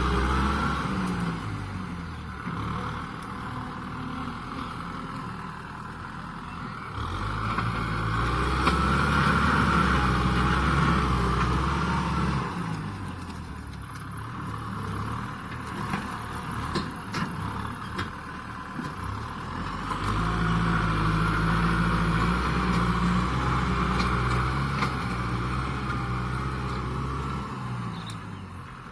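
Kubota M6040SU tractor's diesel engine running while pushing. It grows louder and deeper in two long spells under heavier load, then eases back between them.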